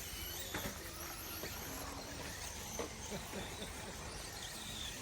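1/10-scale short course RC trucks running around the race track: a steady bed of motor and tyre noise with brief squeaky tones and a few short knocks.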